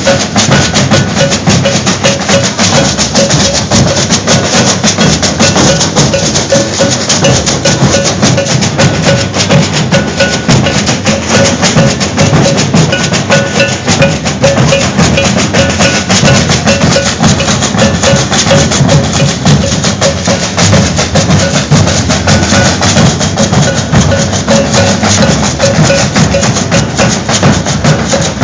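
Maracatu nação percussion ensemble playing a loud, steady, dense rhythm without pause: deep alfaia drums and snare drums under shaking agbê gourds, with a repeated ringing bell stroke.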